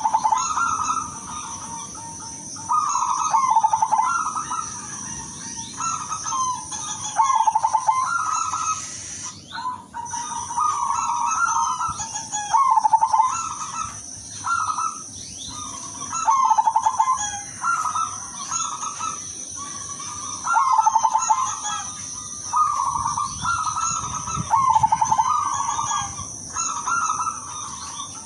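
Zebra dove (perkutut), silver variety, cooing over and over: a repeated phrase every one to two seconds, each a rapid stuttering run of coos. A steady high-pitched tone runs underneath.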